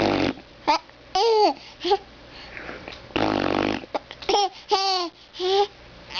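A baby's short, high-pitched vocal sounds, babbling in quick separate bursts with bending pitch. A longer buzzy noise comes about three seconds in.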